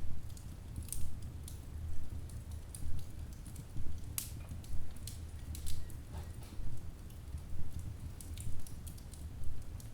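Wood fire burning in a fireplace: logs crackling with irregular sharp pops over a low rumble of the flames that swells about once a second.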